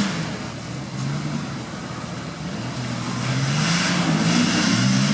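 Off-road vehicle engine revving up and down in repeated surges, its note climbing, dropping back and climbing again.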